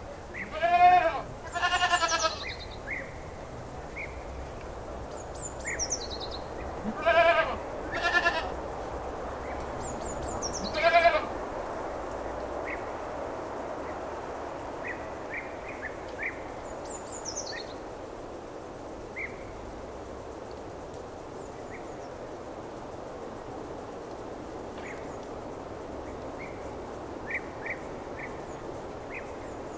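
Goats bleating: five loud, wavering bleats in the first ten seconds or so, then small birds chirping faintly over a steady background hiss.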